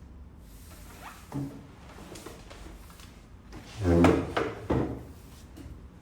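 A drawer sliding open and shut. There is a short knock about a second in, then a louder scraping slide about four seconds in, followed by two quick knocks.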